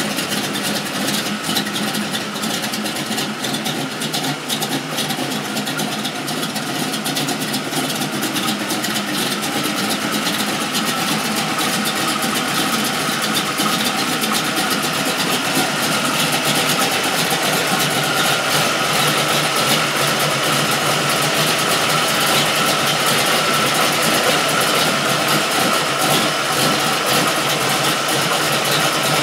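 A 1984 Chevrolet C-10's 355 cubic inch small-block Chevy V8 idling steadily, heard up close in the open engine bay. A steady high whine grows clearer in the second half.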